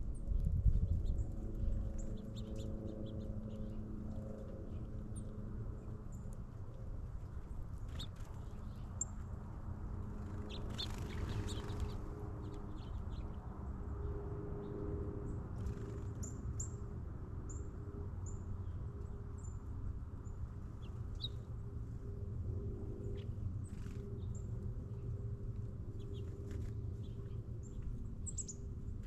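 Small birds chirping on and off with short, high calls, over a steady low hum. A low thump comes just under a second in, and a brief rushing noise about eleven seconds in.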